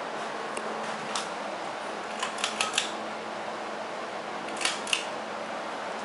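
Monte Carlo Studio ceiling fan running steadily, a constant rush of moving air over a faint motor hum. Several light clicks come through it, a quick run of four about halfway through and two more near the end.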